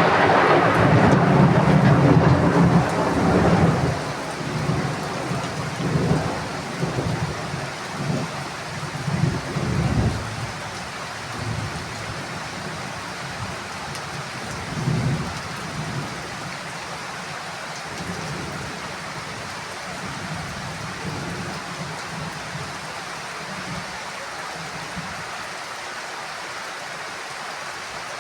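Heavy rain falling steadily, with a loud rolling thunder rumble at the start that fades over about four seconds, followed by a few softer low rumbles until about halfway through; after that only the rain is left.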